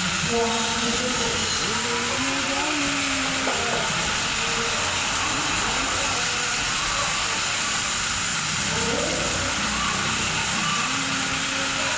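Steady hiss of a high-pressure water spray washing down a car's engine bay, with faint voices underneath.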